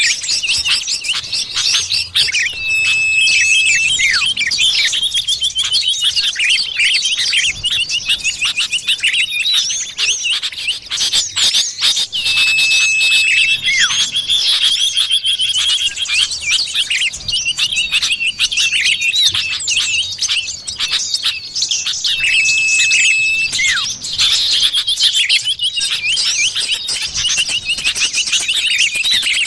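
Iora (cipoh) bird-lure calls: a dense, continuous chatter of high chirps. A short held whistle repeats about every ten seconds, the pattern of a looped lure recording.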